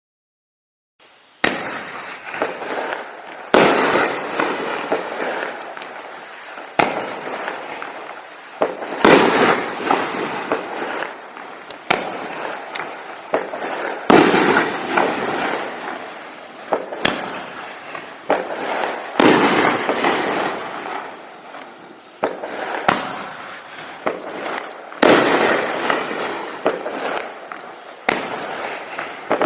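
A 500 g consumer fireworks cake firing its 3-inch shells one after another, about every two to three seconds. Each shot is a sharp report followed by the noisy rumble and crackle of the shell breaking in the sky.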